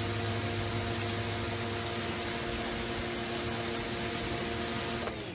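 VEVOR pressure washer running steadily with its motor humming and water spraying through a rotating turbo ('whirly bird') nozzle, then cutting off suddenly about five seconds in as the trigger is let go.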